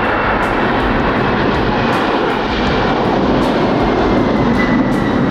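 Aircraft engines running loud and steady, with a faint high whine over the noise.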